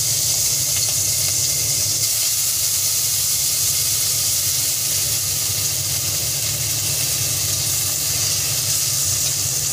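Prawns frying in hot vegetable oil in a kadai, giving a loud, steady sizzle.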